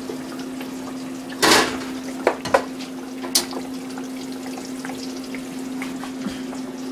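Breaded green tomato slices frying in oil in a saucepan: a steady sizzle over a constant low hum. About a second and a half in comes a short loud rush, followed by a few sharp metal clinks of utensils against the pot and draining rack.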